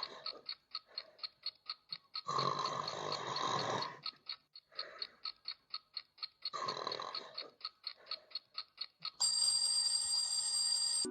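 Clock ticking fast and evenly, about four ticks a second, with three long snores between the ticks. About nine seconds in, an alarm clock bell starts ringing.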